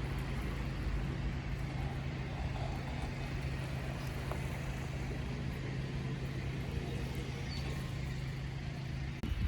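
A vehicle engine idling with a steady low hum, which cuts off suddenly just before the end. A faint brief high chirp sounds about three-quarters of the way through.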